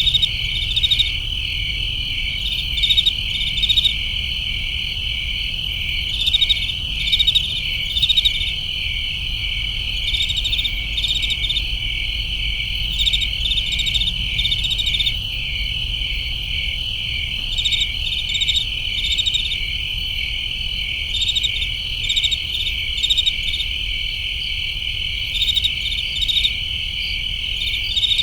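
Crickets chirping in a summer night chorus: a continuous high trill, with louder clusters of rapid chirps coming every two to three seconds. A faint low hum runs underneath.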